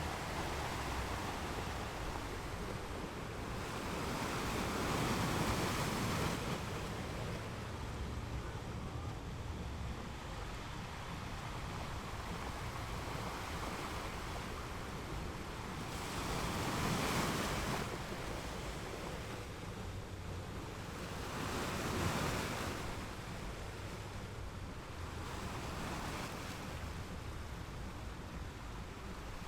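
Sea waves breaking on rocks, a steady wash of surf with louder surges about four, sixteen and twenty-two seconds in.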